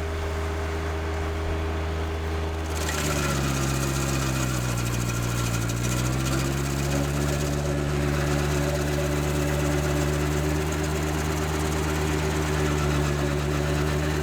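Tractor engine running a PTO-driven stump grinder. About three seconds in, the sound grows louder and harsher; the engine's pitch sags for a few seconds, then recovers and holds steady.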